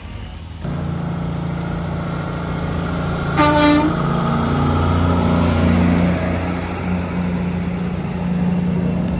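Truck's diesel engine running steady and loud under engine braking on a steep descent, stepping up in level just under a second in. A short horn toot comes about three and a half seconds in.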